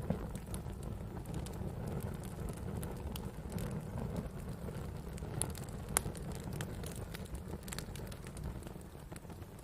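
Wood campfire crackling: scattered sharp snaps and pops over a low, steady rumble of burning wood, with one louder pop about six seconds in.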